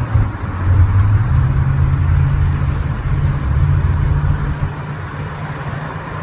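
Learjet 35A's twin Garrett TFE731 turbofans at takeoff power: a loud jet roar over a low drone that steps up in pitch about a second in, then eases off slightly toward the end.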